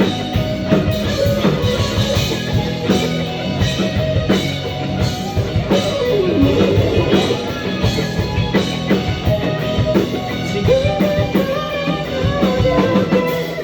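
A rock band playing an instrumental passage: a drum kit, guitar and bass, with a lead guitar line that bends in pitch about halfway through. The band stops together right at the end.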